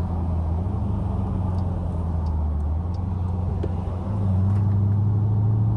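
Straight-piped Dodge Durango exhaust droning at a steady low cruise, growing louder and a little higher in pitch about four seconds in as the throttle opens.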